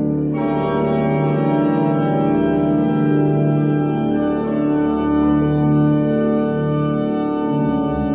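Organ playing slow, sustained chords, the notes held long and the harmony changing every second or two.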